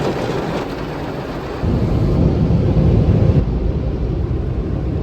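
Automatic car wash working over the car, heard from inside the cabin: a loud rushing wash with a heavy rumble that grows louder about a second and a half in.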